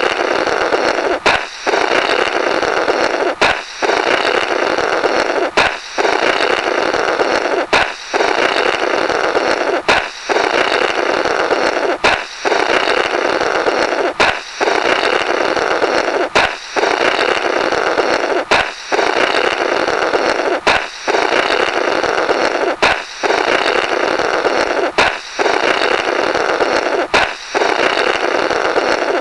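A balloon popping, followed at once by a long rasping 'blorrrt' of air blown through the burst balloon's rubber. The sound-effect loop repeats about every two seconds, around thirteen times in a row, each cycle starting with a sharp pop after a brief gap.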